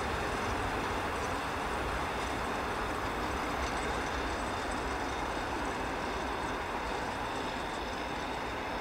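A train approaching from a distance, heard as a steady, even rumble and hiss.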